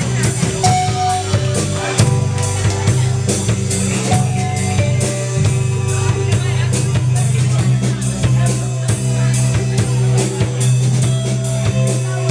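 Live rock band playing, with a drum kit keeping a steady beat over a heavy sustained bass, loud and a little distorted as recorded in the room.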